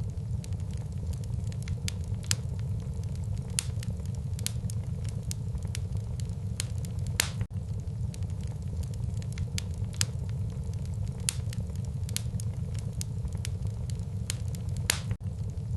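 Wood fire burning in a fireplace, crackling with frequent sharp snaps over a steady low rumble. There are louder pops about seven seconds in and near the end.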